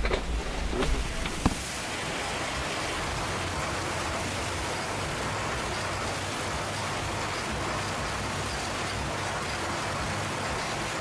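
A few brief clicks in the first second and a half, then a steady, even rushing noise.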